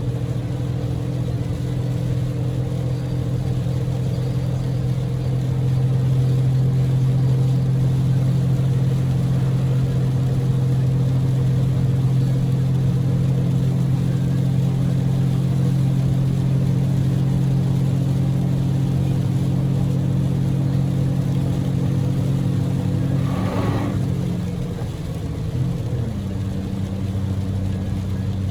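Cabin sound of a Daihatsu Move's EF-VE three-cylinder engine pulling steadily at highway speed, with a hiss of heavy rain and road spray. About 23 seconds in there is a brief whoosh, and the engine note then drops to a lower pitch.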